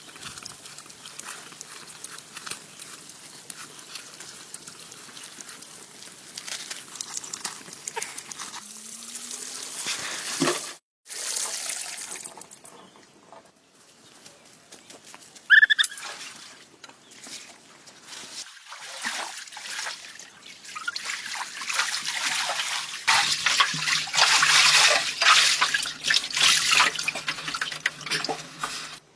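Water trickling and sloshing, with many small clicks and splashes. It is louder over the last few seconds and cuts out abruptly for a moment partway through.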